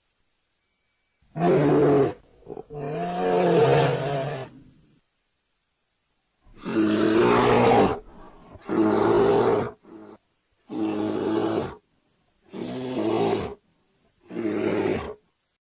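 A bear roaring and growling, about seven separate roars of one to two seconds each with short silent breaks between them; the second roar is the longest.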